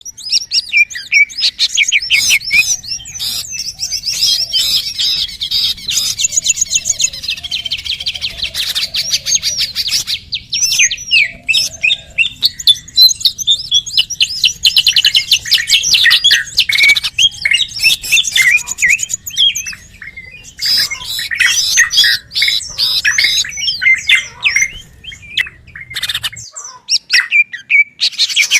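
Bird-luring call recording: many small birds chirping and twittering at once, rapid repeated chirps and fast trills overlapping continuously. A faint low hum underlies most of it and stops near the end.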